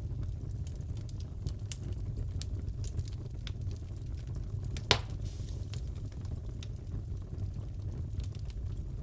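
Wood fire crackling in a fireplace: a steady low rumble with scattered small crackles and one loud pop about five seconds in.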